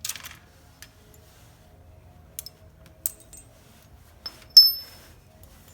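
Small metal parts of a tractor 3-point hitch clinking as cotter pins are worked out. There is a scrape at the start, scattered light ticks, and a sharp clink about three seconds in. Near the end comes the loudest, a bright ringing clink like a coin dropped on metal.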